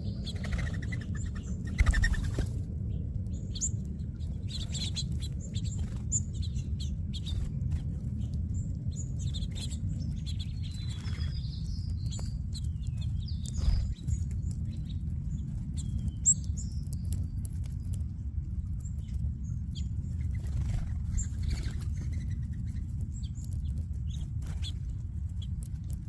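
A feeding flock of small birds chirping in scattered short calls and trills, over a steady low rumble. There are a few sharp knocks about two seconds in and near the middle.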